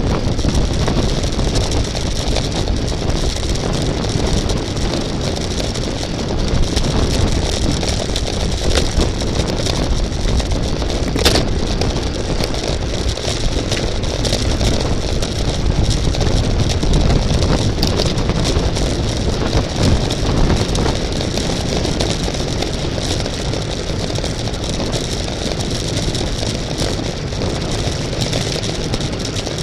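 Steady rush of wind buffeting the microphone, mixed with road noise from a bicycle racing at speed. A couple of sharp clicks stand out, about a third of the way in and again past the middle.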